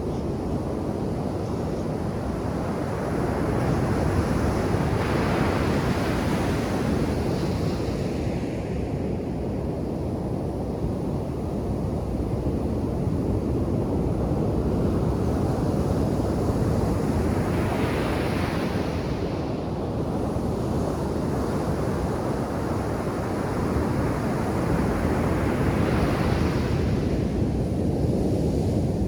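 Ocean surf breaking on a sandy beach: a steady low rush of waves, swelling three times into a brighter hiss as waves break and wash up the shore.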